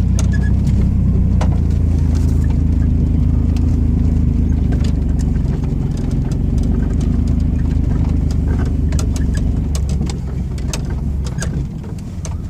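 Chevy S10 ZR2 pickup's 4.3-litre V6 engine running steadily while the truck drives, with scattered light clicks and rattles. The engine note drops off about ten seconds in.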